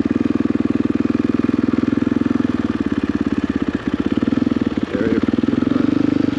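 Dirt bike engine running at low speed as the bike rolls slowly, a steady train of even firing pulses, a little louder from about five seconds in.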